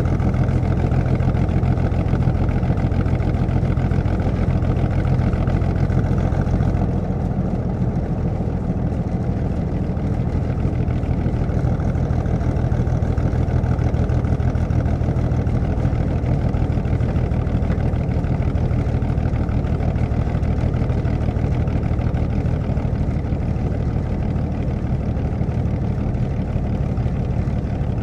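1937 Plymouth's flathead straight-six engine heard from inside the cabin, running steadily as the car is driven. The engine note eases off a little about seven seconds in, then carries on evenly.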